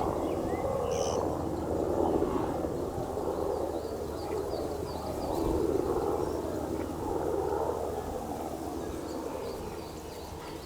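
Japanese pygmy woodpecker nestlings begging inside the nest hole: a continuous buzzy chorus that swells and fades every second or two. A short, higher call comes about a second in.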